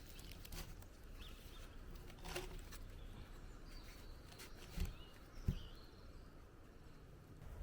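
Quiet outdoor ambience with scattered faint clicks and cracks, a few faint high chirps, and two soft low thumps about five seconds in.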